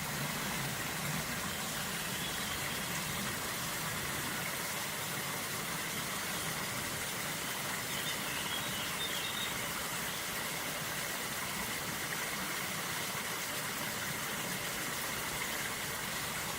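River water flowing steadily, an even rushing noise, with a faint brief bird call about halfway through.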